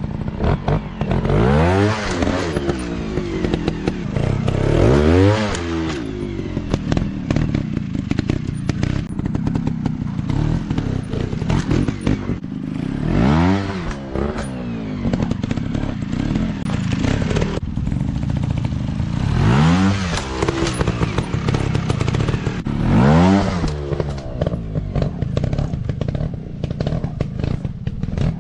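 Dirt bike engine running and being revved up and back down about five times, with clattering and thuds throughout.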